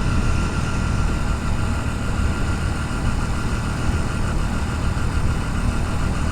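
Motorcycle engine running under a steady rumble of wind and road noise, heard from a helmet-mounted GoPro, with no distinct events.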